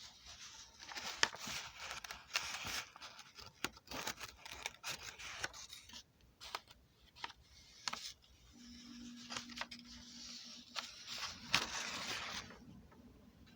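Irregular scraping and rustling with many sharp clicks, and a brief low hum about two-thirds of the way through.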